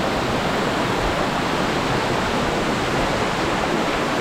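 Waterfall crashing down close by: a loud, steady rush of water.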